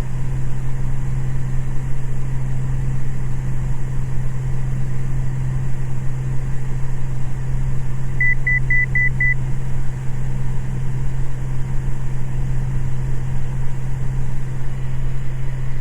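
Cessna 206 Stationair's piston engine and propeller droning steadily in flight. About halfway through, five quick electronic beeps at one pitch sound over it.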